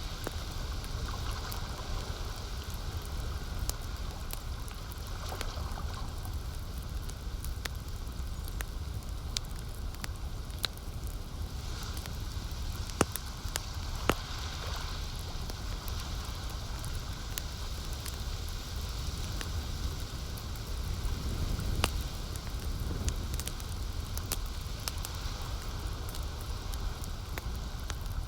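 Campfire crackling with scattered sharp pops, the loudest a little before the middle, over a steady low wash of lake water.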